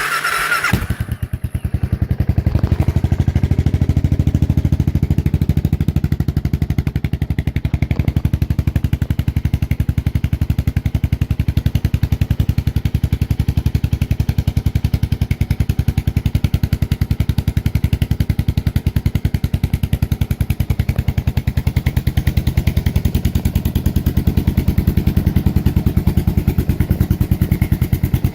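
Suzuki Boulevard S40's 652 cc single-cylinder four-stroke engine starting from cold on the choke, catching right at the start, then idling steadily with an even, pulsing beat.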